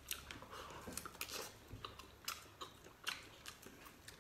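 Close-up chewing and biting on a chunk of pig's head meat: faint, irregular wet mouth clicks and smacks.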